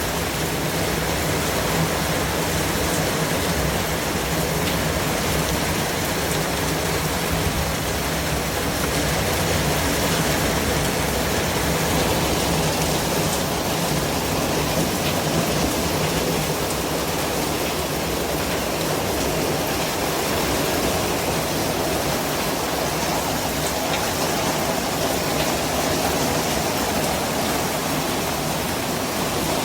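Steady white noise: an even, unbroken hiss across the whole range, with no changes or events.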